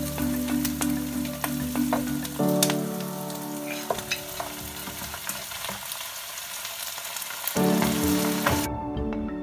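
Diced red onions sizzling in hot oil in a frying pan, with a wooden spatula scraping and stirring; partway through, pieces of goat meat are tipped into the pan and stirred in. The sizzling cuts off near the end.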